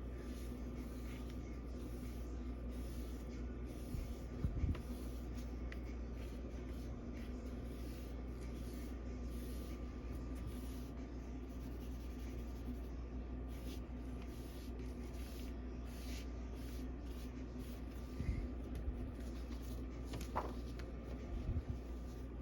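Light hand rubbing on a paper comic book cover, a faint scratchy scrubbing, over a steady hum. A few soft knocks come about four seconds in and again near the end.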